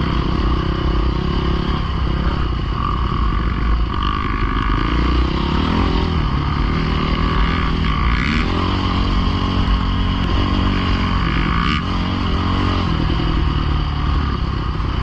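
Dirt bike engine running, its note rising and falling as the throttle is worked.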